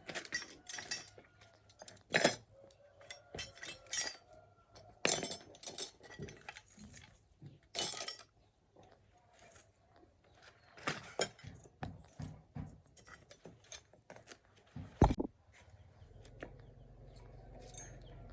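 Metal tools and small engine parts clinking and knocking as they are handled, in an irregular string of sharp clicks and clanks. A low steady hum sets in near the end.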